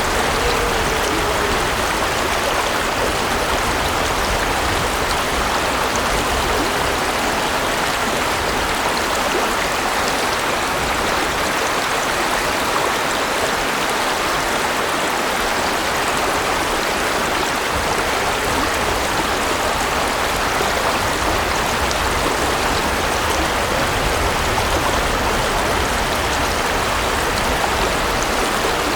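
A mountain stream or river rushing steadily, an even wash of flowing water with no breaks.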